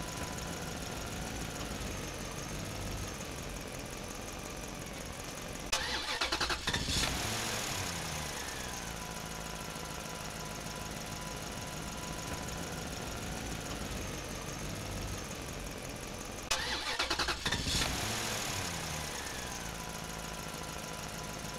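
A vehicle engine running steadily, twice breaking into a loud burst of about a second, about eleven seconds apart, then falling in pitch as it settles back to idle.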